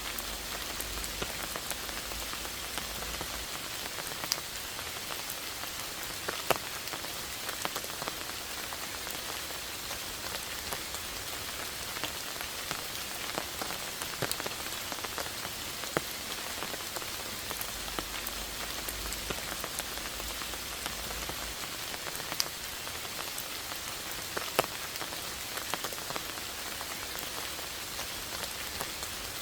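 Steady rain falling, an even hiss with scattered louder single drops striking close by.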